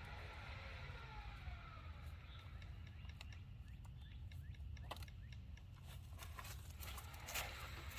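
A distant siren wailing, its pitch gliding down over the first few seconds, above a steady low rumble. Scattered small clicks and knocks follow near the end.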